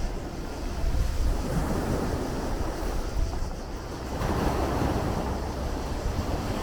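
Sea waves washing and breaking on the shore, with a low rumble of wind on the microphone. A fresh surge of surf builds about four seconds in.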